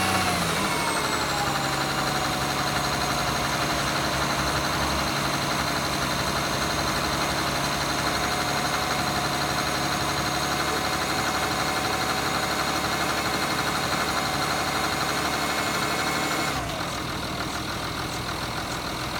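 2008 Jaguar XF 2.7 TDV6 diesel V6 running, its revs falling back to a steady idle in the first second or two. About sixteen seconds in, a high whine winds down and the engine note gets a little quieter.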